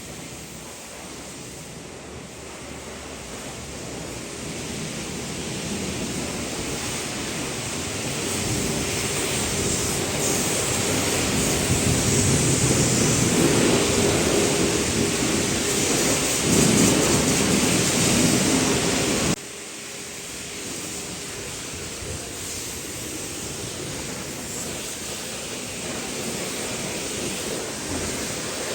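Water spraying hard onto a vehicle's body, a steady hiss that grows louder over the first two-thirds and then drops abruptly and carries on more softly.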